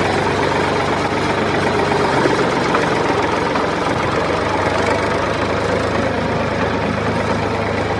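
Tractor engine idling steadily with a fast, even chugging.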